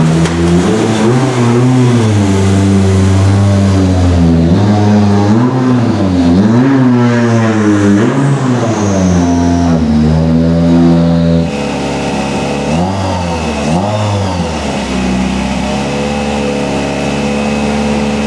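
Rally car engine revving hard, its pitch rising and falling again and again with gear changes and lifts. About eleven seconds in the sound cuts to a quieter engine that dips a few times, then holds a steady pitch with a thin high whine over it.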